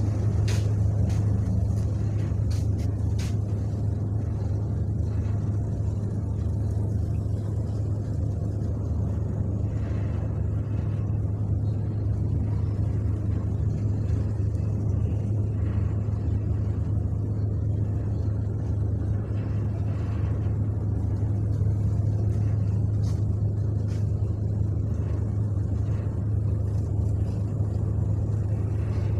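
Ship's engine running with a steady low drone while the ship waits to berth, with a few light clicks in the first seconds.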